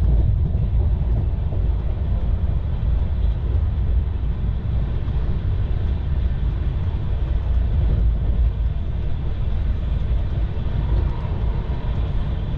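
Steady low rumble of a moving passenger train heard from inside the coach: wheels running on the rails and the carriage noise of the Mahananda Express in motion.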